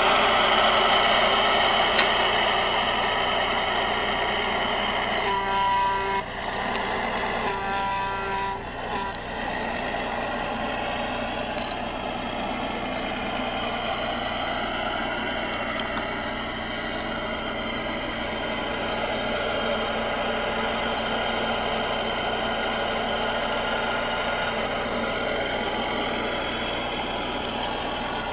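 Truck engine running steadily, with two horn blasts about a second each, roughly five and eight seconds in.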